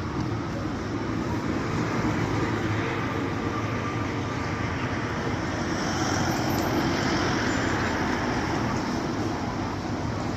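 A vehicle running steadily: a low engine hum with a constant rushing road-and-traffic noise.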